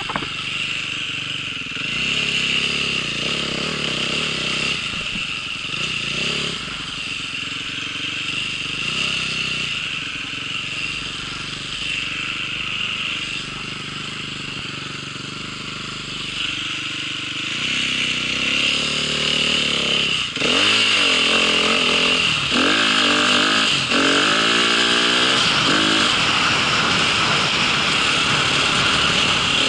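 Motorcycle engine running under way, its pitch shifting with the throttle; from about two-thirds of the way through it gets louder and revs up and down several times.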